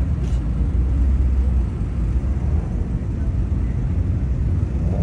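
Steady low rumble of car engines running at a car meet.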